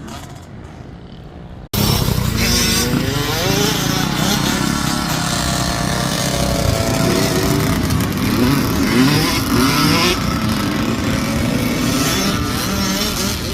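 Small two-stroke motocross bike engines revving up and down hard, pitch rising and falling as the bikes go through the gears. The loud engine sound starts abruptly about two seconds in.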